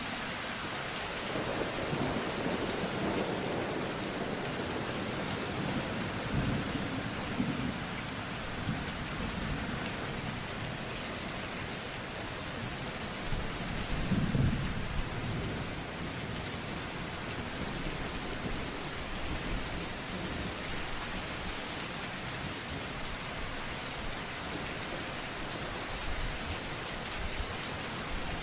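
Steady rain falling, with low rumbles of thunder, the loudest about halfway through.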